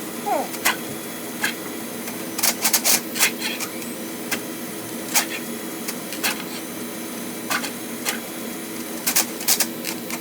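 Electric flexible-shaft drain rodder running steadily, its wire cable spinning in the drain pipe, with irregular sharp clacks and knocks over the motor's hum, bunched about a third of the way in and again near the end.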